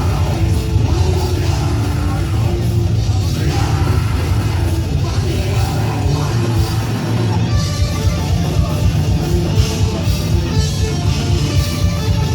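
Heavy metal band playing: distorted electric guitars over a drum kit, loud and dense.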